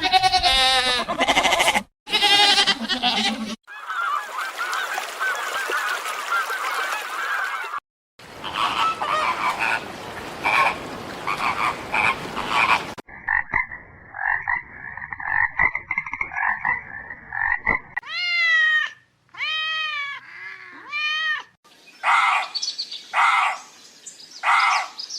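A run of different animal calls, clip after clip with abrupt cuts between them. It includes a dense chorus of calls, a steady high-pitched stretch, a few separate arched calls that rise and fall, and short repeated calls near the end.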